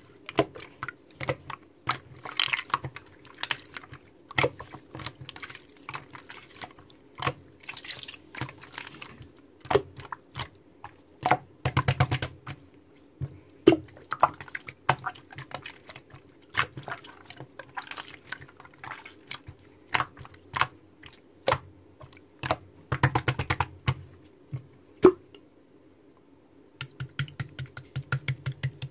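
Slime being squeezed, pressed and poked by hand, giving crisp clicking and popping sounds from trapped air. Some stretches turn into quick runs of many clicks.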